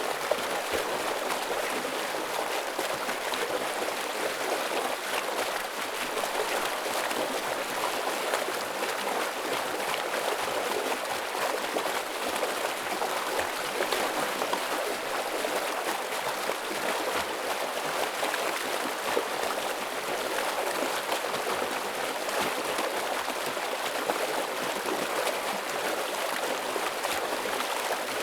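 Stream water rushing and splashing steadily over rocks.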